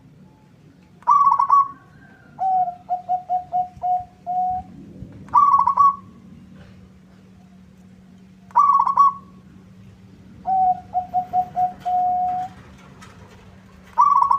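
Zebra dove (perkutut) singing: loud single higher coos, and twice a run of rapid, lower staccato coos that ends in a held note.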